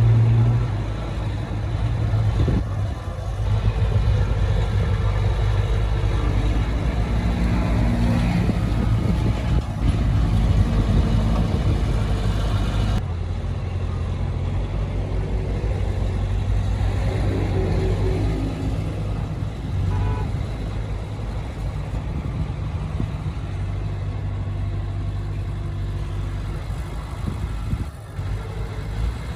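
Heavy diesel engines of earthmoving machinery running steadily under load, with an abrupt change in the sound about halfway through.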